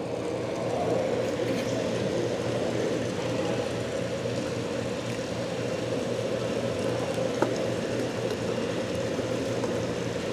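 Steady mechanical hum with a hiss, with a single short click about seven seconds in.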